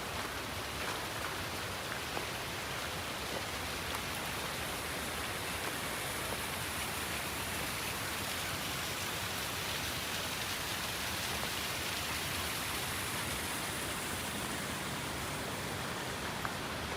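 Steady rush of running water, with a few faint taps.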